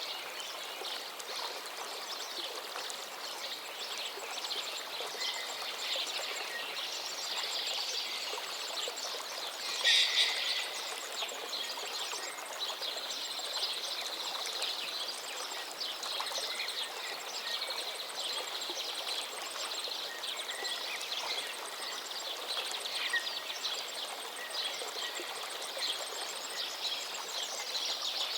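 Forest stream flowing steadily with several songbirds singing over it: quick trills, chirps and whistles, with one loud, short call about ten seconds in.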